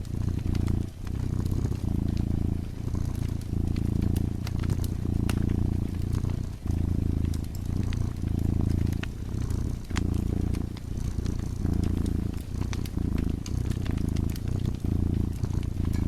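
Cat purring close up, a low rumble that swells and eases with each breath, over the sharp, scattered crackles of a burning wood fire in a fireplace.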